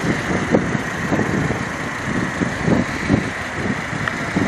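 2006 Volvo XC90's 2.5-litre turbocharged inline-five engine idling steadily, with an uneven rumble underneath.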